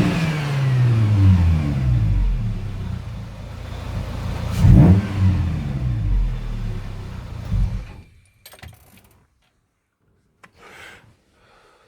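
Exhaust of a VAZ-2107 with a 16-valve engine being revved: the revs fall back from a high rev, then a quick sharp blip of the throttle about halfway through drops back again. The engine sound stops abruptly about two-thirds of the way through, leaving near silence.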